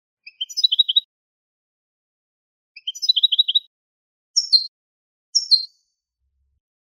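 A goldfinch × linnet hybrid singing: two rapid chirping trills, then two short phrases of quick falling notes, with pauses between the phrases.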